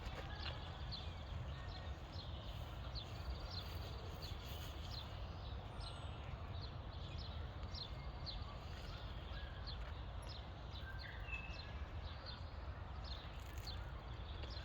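Footsteps walking at a steady pace, about two to three steps a second, over a low steady rumble of wind on the microphone.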